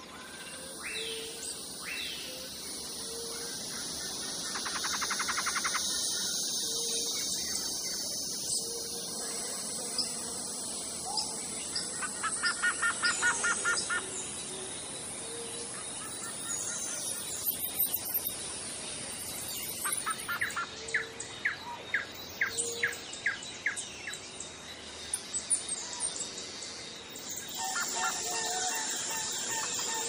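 Songbirds calling: a fast run of repeated notes near the middle and a string of sharp chirps later, over a steady high-pitched hiss.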